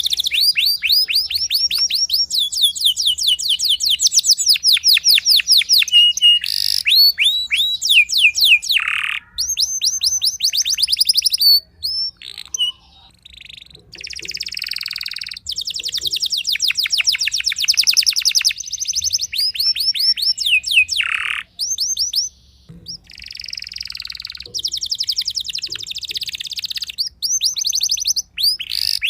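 Domestic canary singing: fast trills of rapidly repeated high sweeping notes, each roll lasting a second or two and changing to a new note type, with short breaks and a brief lull about twelve seconds in.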